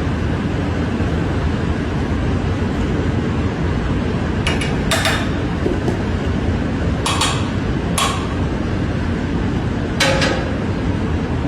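Inspection hammer tapping metal fittings on a bullet train, checking by the ring of each blow that nothing has worked loose. There are about five sharp metallic strikes, spaced unevenly, with the loudest near the end, over a steady low rumble.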